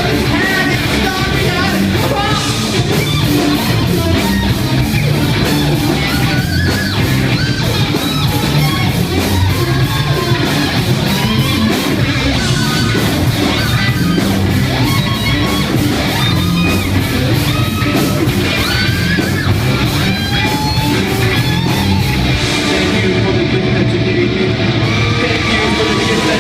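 Live heavy metal band playing loud and without a break: distorted electric guitars over bass and drums, with bending lead guitar or vocal lines.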